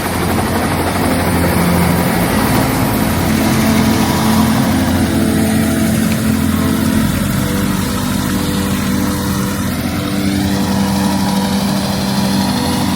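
Helicopter running steadily, a loud even drone of engine and rotor noise.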